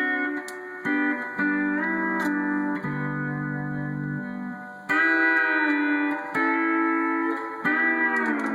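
Pedal steel guitar playing sustained chords in a country tune, with notes bending up and down as the pedals are pressed and let off, and a new chord picked about every second.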